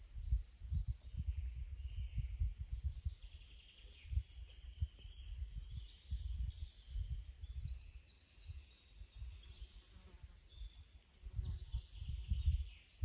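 White wagtails chirping: many short, high calls in quick succession, over low, gusty wind buffeting on the microphone that is the loudest sound.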